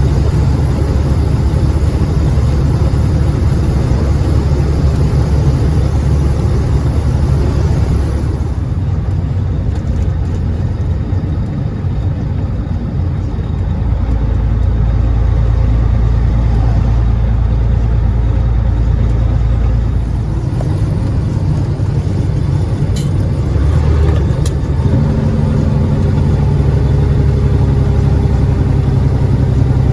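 Cat 3406E diesel engine of a Freightliner FLD120 semi truck heard from the cab, running under load as the truck pulls away. Its pitch shifts in steps every few seconds, as with gear changes, and there are two short clicks near the end.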